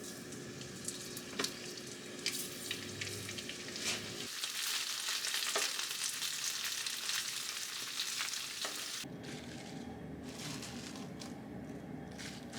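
Food sizzling in a frying pan, the hiss loudest in the middle few seconds. Scattered clicks and knocks come from utensils, and the sound changes abruptly between cuts.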